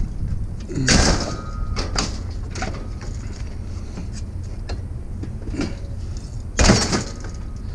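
Two loud clunks, about a second in and again near the end, the first with a brief metallic ring, with lighter knocks and rattles between them, over the steady low rumble of a vehicle's idling engine.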